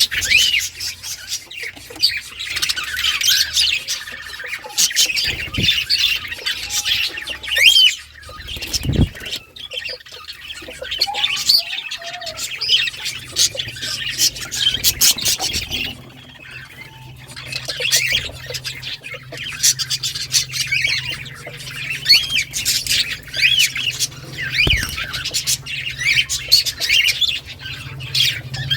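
Budgerigars chattering and warbling: a dense stream of quick chirps, squawks and gliding notes, thinning briefly twice.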